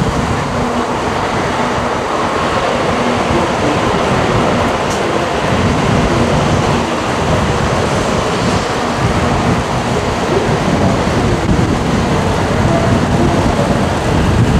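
Tokaido Shinkansen N700-series train passing through a station at reduced speed for snow: a loud, steady rumble of wheels and rushing air that runs unbroken for the length of a long train.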